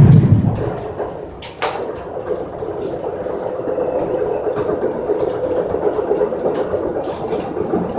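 Metra commuter train rolling over track, heard from on board: a steady rumble of wheels on rail with scattered small clicks. A loud low rumble fades away in the first second, and a single sharp clank comes about one and a half seconds in.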